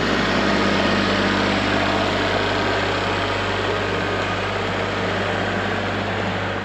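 An engine idling steadily, a low even hum that cuts off suddenly near the end.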